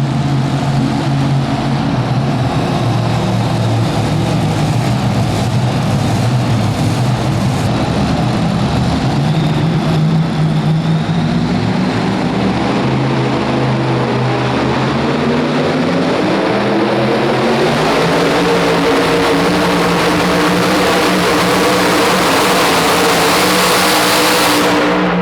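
A super modified two-wheel-drive pulling truck's engine running hard at full throttle during a pull. Its pitch climbs over a few seconds about halfway through, then holds high and loud.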